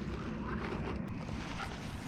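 Wind buffeting the microphone outdoors, a steady low rumble with faint light rustles over it.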